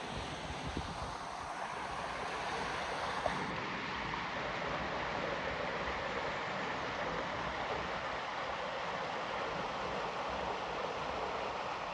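Steady rush of a flowing river, with a brief click about three seconds in.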